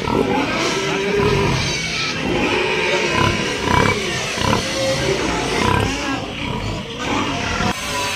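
Pigs calling in short, irregular calls, with background music playing.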